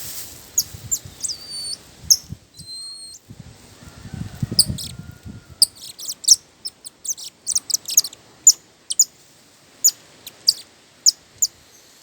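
Birds chirping: a run of short, sharp high-pitched chirps that come thickest from about five to nine seconds in. A brief low rumble sounds about four seconds in.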